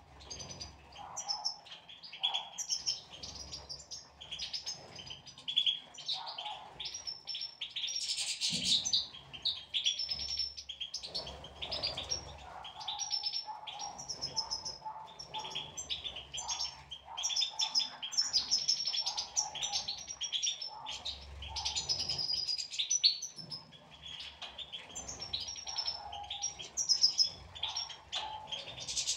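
European goldfinches twittering and chirping continuously in quick runs of high notes, with a brief burst of noise about eight seconds in.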